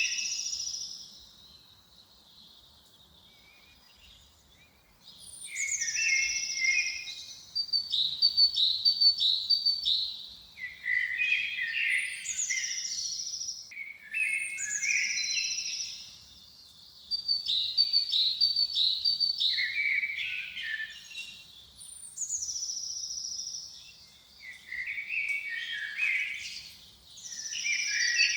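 A songbird singing the same few-second phrase over and over: each phrase opens with a high falling note and runs into a string of quick chirps that drop lower. The song pauses for a few seconds near the start, then the phrases follow close together.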